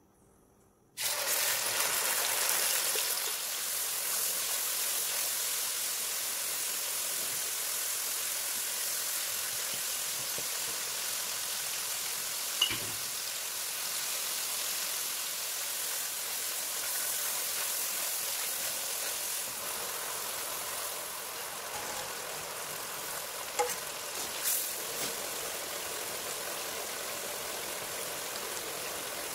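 Sauce frying in hot oil in a metal pan: a steady sizzle that starts suddenly about a second in. A sharp knock comes near the middle, and two short clicks come later.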